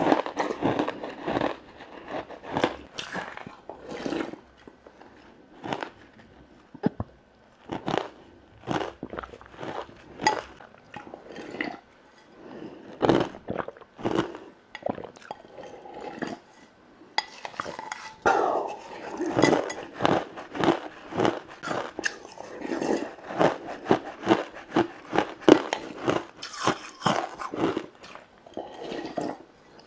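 A person biting and chewing frozen matcha ice: a long run of sharp, irregular crunches and cracks. The crunching turns denser and more continuous about halfway through.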